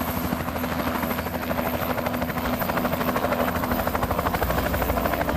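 Cargo helicopter running at close range, its rotor blades giving a fast, steady chop that grows slightly louder.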